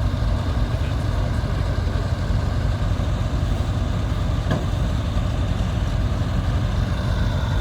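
Heavy tractor engine running steadily, low-pitched and even in level, with one short click about four and a half seconds in.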